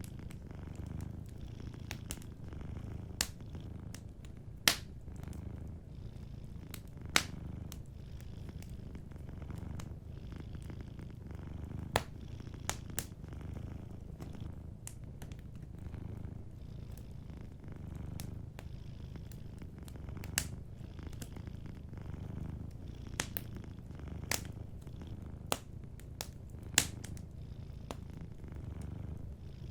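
A cat purring steadily in slow swelling cycles, with a wood fire crackling over it: sharp pops every second or two, the loudest sounds.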